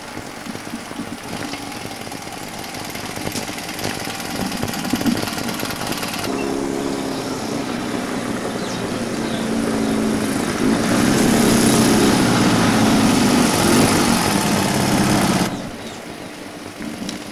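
BMW motorcycle engine running under way, with steady road and wind noise; its note shifts in pitch and grows louder from about six seconds in, then the sound drops off abruptly near the end.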